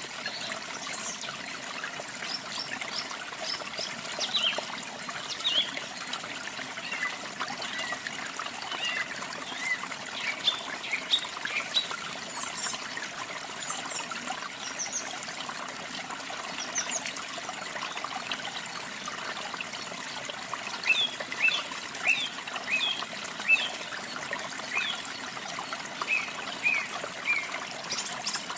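Water running and trickling steadily, with small songbirds chirping over it: short, high, quick notes in scattered clusters, busiest in the last third.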